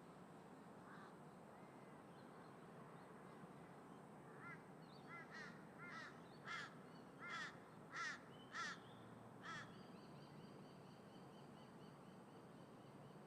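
A crow cawing about eight times in a steady series, the calls growing louder toward the middle and then trailing off, over a faint steady background noise.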